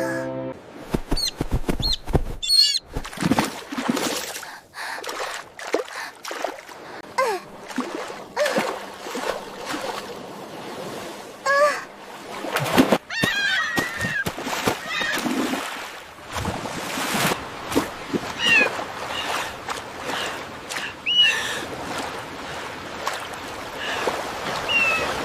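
Water splashing again and again, with short chirping and squawking calls from small creatures scattered through it, some of them warbling.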